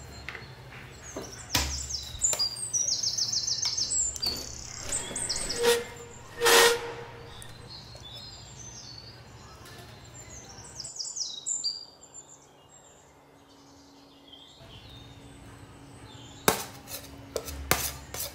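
Birds chirping in quick, high trills over a low, steady city hum. There is one sharp knock about six seconds in, and a few sharp clicks near the end.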